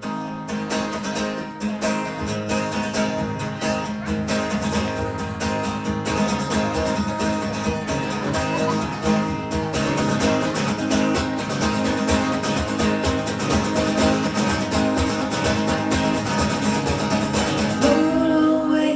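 Acoustic guitar strummed steadily, playing the instrumental introduction of a live song.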